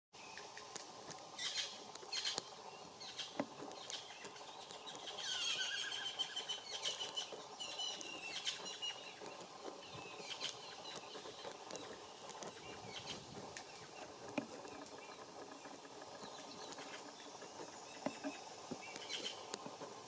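Small songbirds chirping, busiest from about five to nine seconds in, over a steady outdoor background with scattered light clicks.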